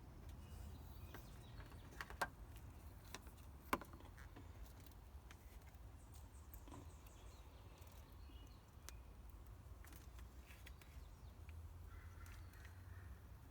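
Near silence: faint low background hum with two small clicks, about two and four seconds in.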